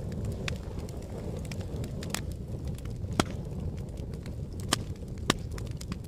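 Fire burning with a steady low rumble and scattered sharp crackles and pops; the three loudest pops come about three seconds in, near five seconds, and just after.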